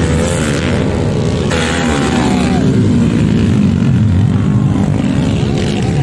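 Dirt bike engines running loudly and revving, their pitch rising and falling, with more than one engine heard at once.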